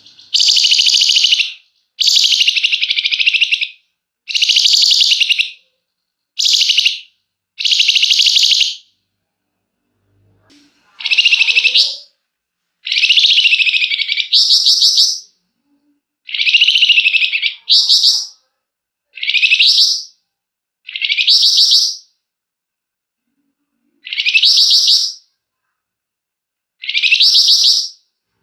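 Flamboyan songbird singing a run of loud, buzzy rattling phrases (the 'ngebren' song), each about a second long with short pauses between. Toward the end the phrases become shorter, rising sweeps.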